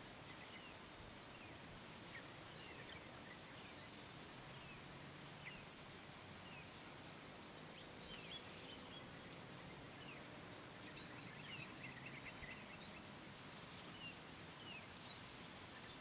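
Birds chirping now and then over a faint steady hiss, with a quick run of chirps a little past the middle.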